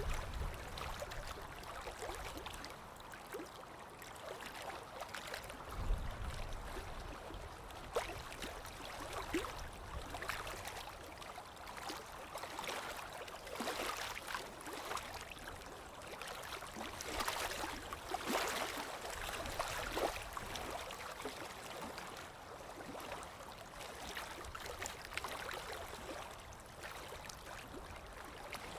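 Steady rain-and-water ambience: running water gurgling and splashing, with many small irregular drips and taps. A brief low rumble comes about six seconds in.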